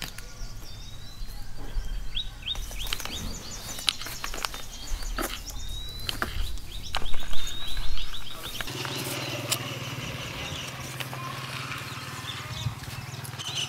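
Small birds chirping, with scattered knocks and thumps, loudest about seven to eight seconds in. From about nine seconds a steady low hum sets in under the chirping.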